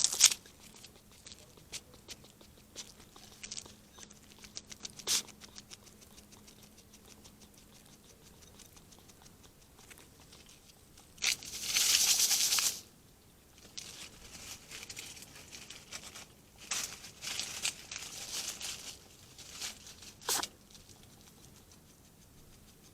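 Hedgehog making a run of quick small clicks and snuffles, then a loud hiss lasting about a second and a half midway, followed by more short hissy bursts with clicks.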